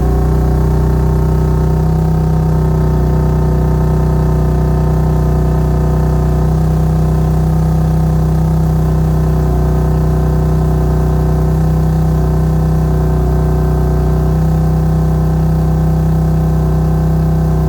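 BMW F87 M2 Competition's S55 twin-turbo inline-six idling steadily after a cold start, heard through an M Performance axle-back exhaust.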